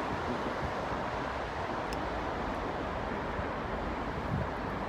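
Steady outdoor rumble and rush of vehicle noise, with wind on the microphone.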